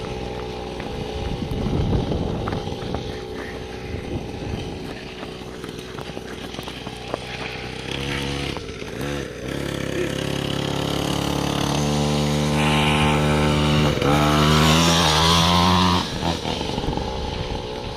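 Motocross motorcycle engine running at low revs, then revving up again and again about halfway through. Its pitch climbs to a loud high-revving stretch near the end before dropping off sharply.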